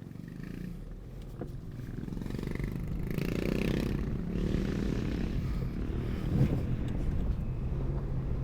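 Vehicle driving on the road: low engine and road rumble that builds over the first three seconds as it gets under way, then holds steady.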